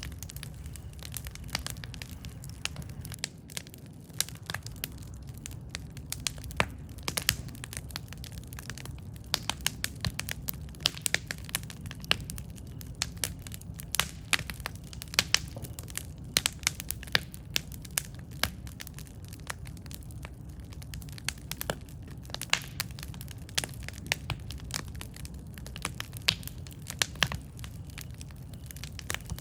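Campfire burning with a steady low rumble of flame and frequent irregular sharp crackles and pops from the burning wood.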